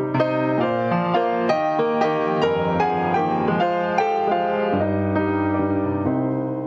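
Piano playing a slow, gentle prelude, a steady run of notes and chords.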